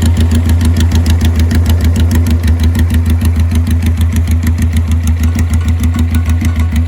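Suzuki GS400's air-cooled four-stroke parallel twin, straight-piped, idling loudly and steadily with an even, rapid pulsing exhaust beat.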